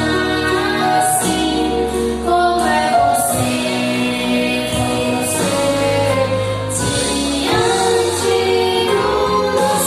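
Music: a choir singing long held notes over instrumental backing with a steady bass line.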